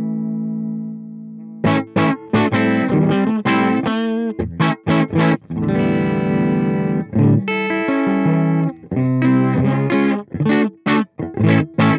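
Electric guitar with humbucker pickups through a Peace Hill FX TR tube preamp, with a driven, gritty tone. A held chord fades out, then after a short gap come quick, clipped chord stabs, with two chords held for about a second each in the middle.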